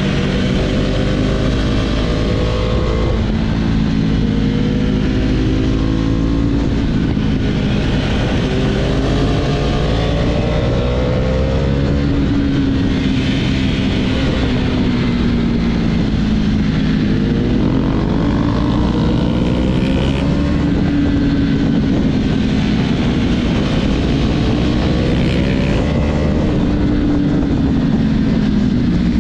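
Husqvarna Vitpilen's single-cylinder engine and exhaust under hard acceleration. The pitch climbs over a couple of seconds, then drops back, again and again as it shifts up through the gears.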